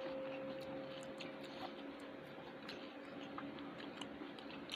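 Quiet eating sounds: faint, scattered small clicks of chewing and mouth noises over a low steady hum.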